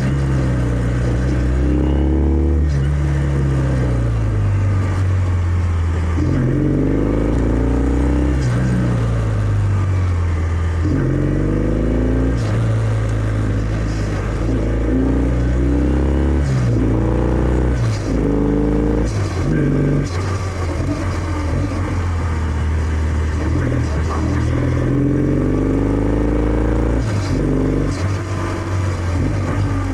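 Kawasaki W650's air-cooled parallel-twin engine running through its stock exhaust while riding. The pitch rises repeatedly under throttle and then drops back, again and again.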